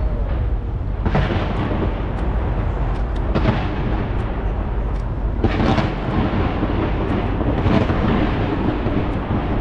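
Aerial fireworks going off in a continuous barrage of booms and crackle, with heavier bursts about every two seconds.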